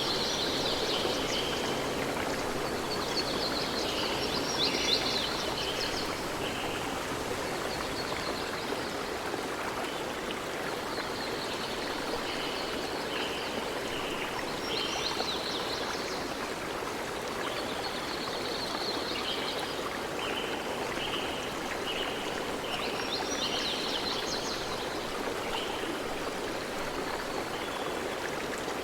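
Stream flowing steadily, with small birds chirping and trilling in short repeated phrases over it.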